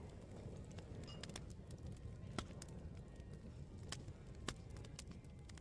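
Open wood fire crackling, with irregular sharp pops, over a low, steady murmur of pub chatter.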